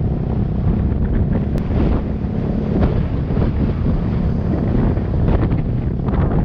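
Wind buffeting the microphone of a moving motorcycle: a loud, steady, low rush of noise.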